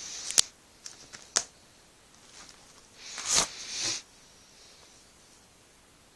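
Handling noise: a few brief rustles, each with a sharp click or knock, the loudest pair about three and a half seconds in, with quiet stretches between.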